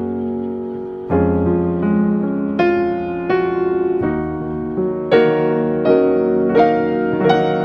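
Slow, gentle piano music, with sustained chords and single high notes struck every second or so.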